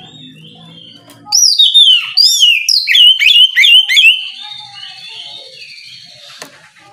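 Oriental magpie-robin (kacer) singing: after a faint start, about a second in, a loud, fast run of looping, sweeping whistled notes lasts about three seconds, then gives way to a quieter, thin held whistle that fades.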